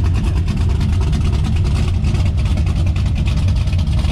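Classic muscle car's engine idling with a steady, deep rumble.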